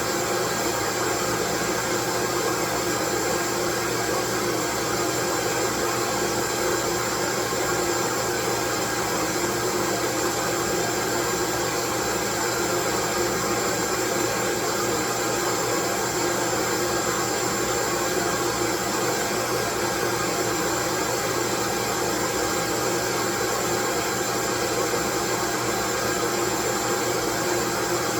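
Continuous white noise: an even, unchanging hiss spread from low to high pitch, with a few faint steady tones in it.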